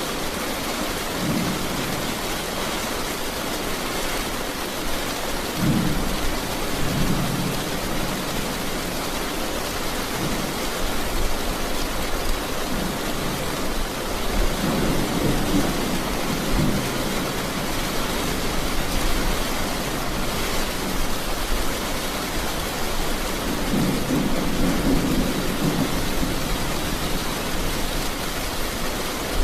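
Steady, even rain with low rolls of thunder swelling up over it several times, the longest about halfway through and again near the end.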